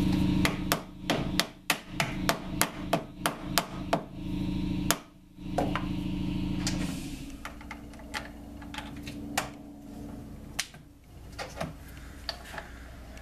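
A hammer rapping a lathe chuck jaw that is sticking in its slot: about a dozen quick metallic strikes, roughly three a second, then one harder blow and a few lighter taps. A steady machine hum runs underneath and stops about seven seconds in.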